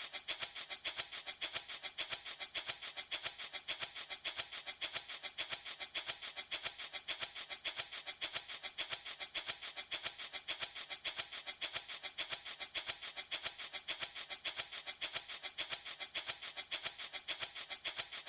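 Handmade wooden baby rattle shaken in a steady, even rhythm, a few shakes a second, each a crisp burst of rattling beads.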